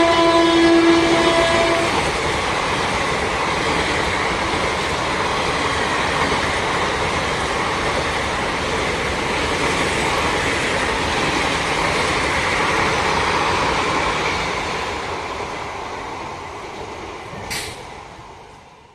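Train horn sounding until about a second and a half in, then the steady rumble and clatter of a train running across a rail bridge, fading away near the end.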